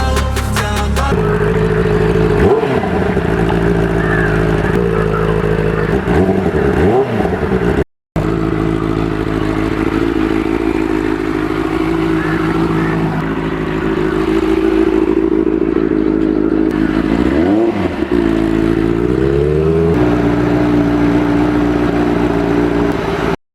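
Benelli 600i's inline-four engine running steadily, with a few dips and rises in revs as the throttle is rolled off and opened again, and a short cut to silence about eight seconds in.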